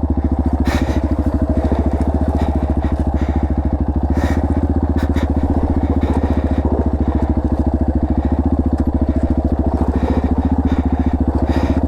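Dirt bike engine running steadily without revving up or down, with a few short clicks and knocks along the way.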